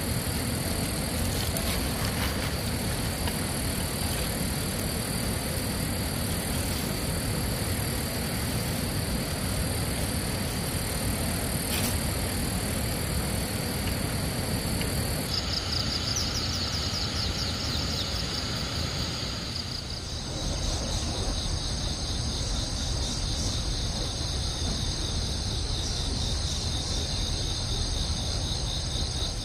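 Insects singing in high, steady tones that turn to rapid pulsed chirping about halfway through, over a steady low rushing noise.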